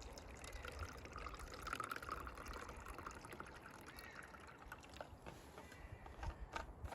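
A drink poured from a thermos into a cup, the pour strongest about two seconds in, followed by a few light knocks.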